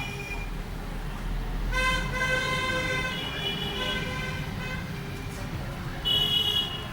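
Vehicle horns honking in city traffic over a low engine and road rumble: a steady horn blast of about three seconds starting about two seconds in, then a short, louder, higher-pitched beep near the end.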